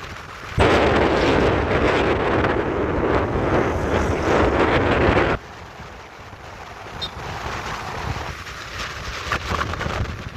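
Vehicle driving noise with wind buffeting the microphone: loud for about five seconds, then dropping off suddenly to a quieter rumble.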